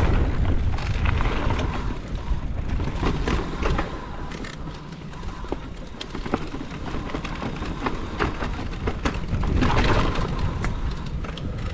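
Wind buffeting the microphone over the rumble of a mountain bike's tyres on a dirt trail, with scattered sharp rattles and clicks from the bike. The rumble is loudest at the start and again near the end.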